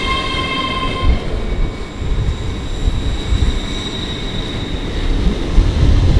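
Great Western Railway Class 800 train running at the station platform with a low rumble. A set of high steady tones cuts off about a second in, leaving the rumble and a faint high whine.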